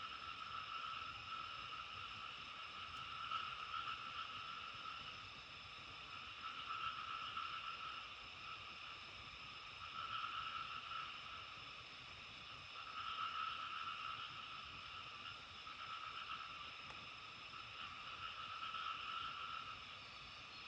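A steady outdoor chorus of many calling animals, a dense trilling din that swells and fades every few seconds over a faint background hiss.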